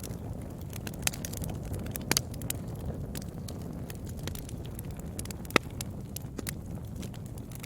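Wood fire burning in a fireplace: a steady low rumble of flames with scattered sharp crackles and pops. The loudest pop comes a little past halfway.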